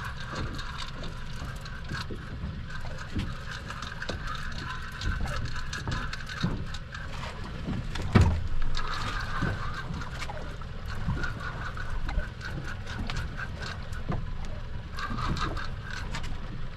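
Fishing reel being cranked against a heavy lure, with a steady whirring and small ticks that stop and start, over wind on the microphone. A single loud knock about eight seconds in.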